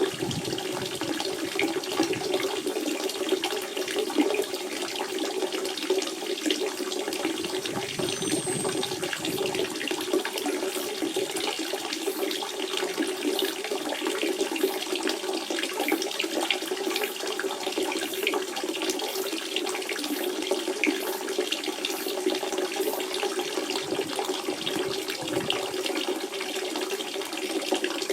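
Natural spring water running steadily, a continuous flow with many small splashes.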